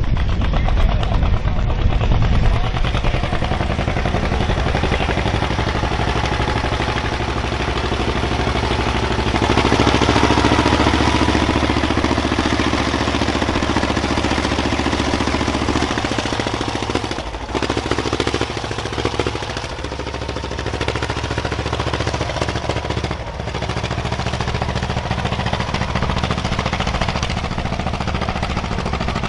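Heavy pulling-vehicle engine running hard under load, a steady low drone with noise above it. It grows louder and higher about nine seconds in, then dips briefly twice in the second half.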